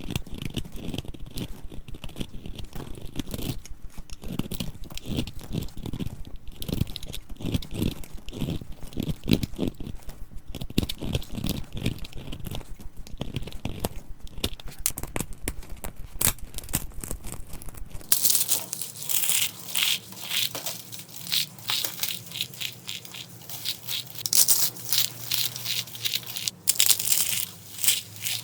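Dry soap being crushed and cut, giving a rapid run of crumbly crunches. About two-thirds of the way in the sound changes abruptly to brighter, sharper crunches.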